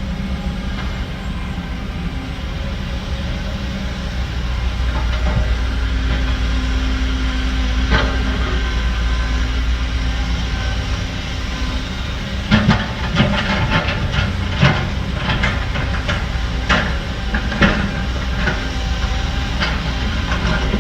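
Heavy diesel construction machinery running with a steady low engine drone. About twelve seconds in, a run of irregular metallic clanks and knocks joins it.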